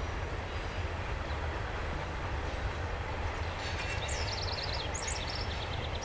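Long freight train rolling steadily past, a continuous rumble of cars on rail. Over it, a songbird sings two short phrases of quick, repeated falling chirps about midway.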